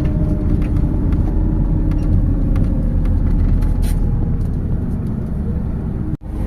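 MAZ 206.067 city bus riding, heard as a steady low engine and road rumble with a faint engine tone that falls slowly, as the bus eases off. The sound drops out abruptly for a moment near the end.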